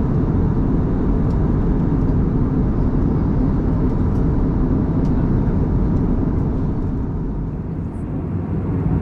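Steady low rush of cabin noise inside an Airbus A321neo in flight: engine and airflow noise, easing slightly for a moment about eight seconds in.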